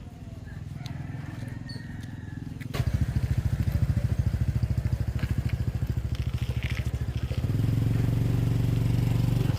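A small engine starts up about three seconds in and runs with a rapid, even low throb. About seven and a half seconds in it settles into a steadier, louder hum.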